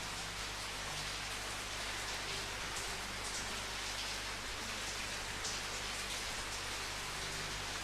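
Steady rain falling, an even hiss with now and then a brighter drop or splash standing out.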